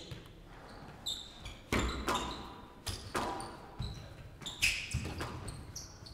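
Squash rally: the ball is struck by rackets and smacks off the court walls in a string of sharp hits every half second to a second. Short high squeaks from players' shoes on the court floor come between the hits.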